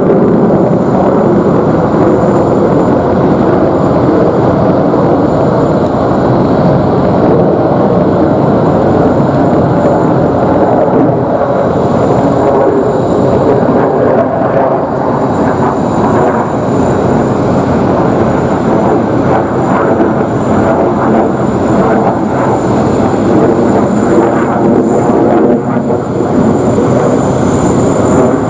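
Loud, continuous jet noise from a Boeing F-15QA fighter's twin General Electric F110 engines during a display, a heavy rumble with a thin high whine above it.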